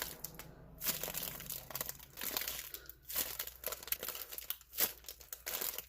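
Irregular crinkling and rustling of plastic as a homemade squishy is squeezed and handled, in a series of short scrunching bursts.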